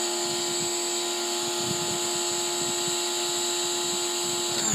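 Campbell Hausfeld PW1835 electric pressure washer running steadily, its motor and pump humming under a high hiss of spray; it cuts off suddenly near the end as the trigger is released and the instant-on pump stops.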